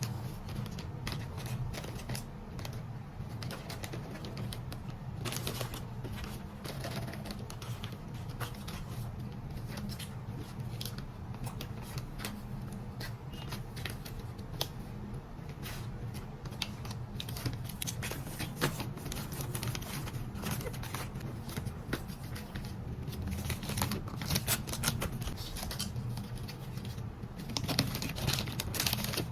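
Irregular light clicks and taps from objects being handled, over a steady low hum, growing busier and louder near the end.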